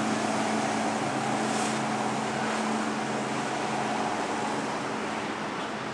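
Steady hum of a cruise ship's machinery: a constant low tone over an even rushing noise, with some wind.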